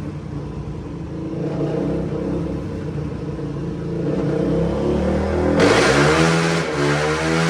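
Suzuki DR-Z400 single-cylinder four-stroke dirt-bike engine on a dyno with an MRD exhaust, running at steady revs. About five and a half seconds in the throttle opens: the exhaust gets louder and the revs climb in a few short rising sweeps.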